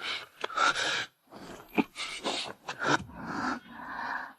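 A person's voice making short breathy sounds without clear words, a dozen or so brief bursts with small gaps between them.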